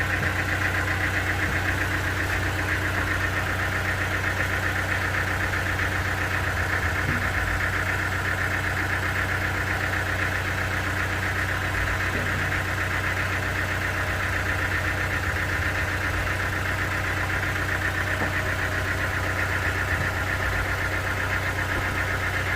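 Sawmill engine running steadily at constant speed, with a steady low hum and a higher band of machine noise.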